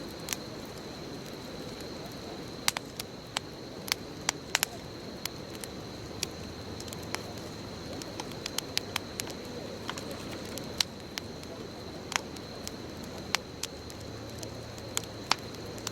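Wood bonfire burning: a steady low rush of flames with sharp crackles and pops at irregular moments, about a dozen of them, over a thin steady high-pitched tone.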